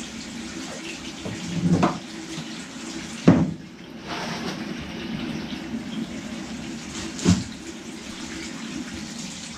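Water running from a tap into a sink, with a few knocks of items being handled, the loudest about three seconds in.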